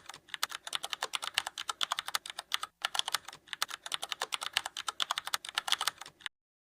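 A fast, steady run of light clicks, about ten a second, with a brief break near the middle, that stops abruptly near the end.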